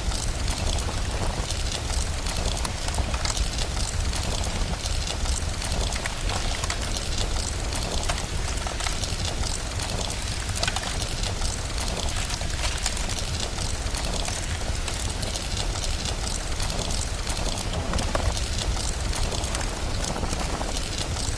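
Steady rain mixed with a crackling fire: a dense, even hiss full of small pops and crackles over a steady low rumble.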